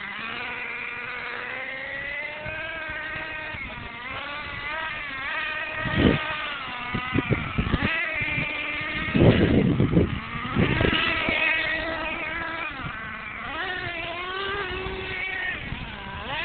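Motor of a radio-controlled monster truck giving a high, insect-like whine that rises and falls in pitch as the truck speeds up and slows down, with short bursts of rushing noise about six seconds in and again around nine to ten seconds in.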